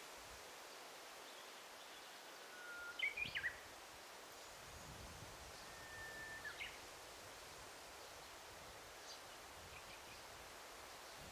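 Daytime forest ambience: a steady soft hiss with a songbird singing twice. Each phrase is a held whistle followed by a quick run of higher notes, and a few faint calls follow later.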